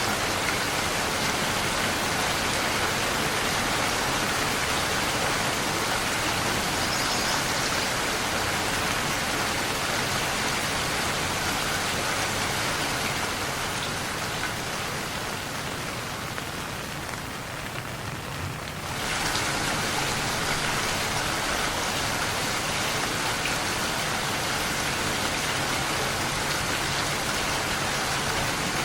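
Steady rain falling and pattering on surfaces. About two-thirds of the way through it thins and softens for a few seconds, then comes back at full strength all at once.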